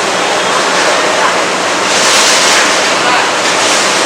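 Elephant foot yam pieces sizzling in hot oil, a loud steady frying hiss that swells a little about halfway through.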